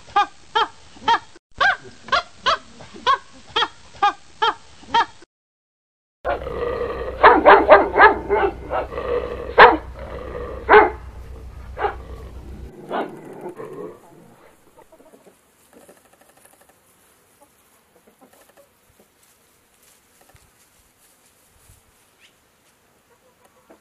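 A run of short repeated animal calls, about two a second, stops about five seconds in. After a brief gap a dog barks and yips for several seconds, then only faint scattered sounds remain.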